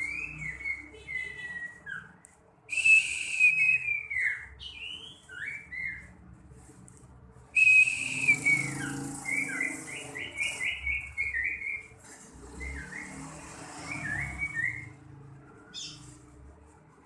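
Common iora (cipoh) whistling a series of short, mostly falling notes, with a quick run of repeated notes about ten seconds in. Bursts of harsh hiss come in at about three seconds and again at about seven and a half seconds.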